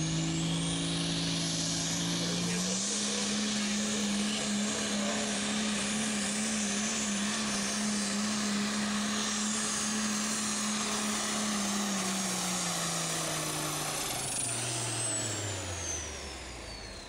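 Altered stock farm tractor's engine pulled at full throttle down a tractor-pull track. The engine note climbs about three seconds in and holds steady with a high whine over it, then drops away in the last few seconds as the tractor throttles down at the end of the pull.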